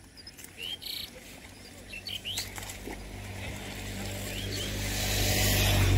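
Small birds giving short rising chirps several times, over a steady low hum. A loud rushing noise builds over the second half and is loudest at the end.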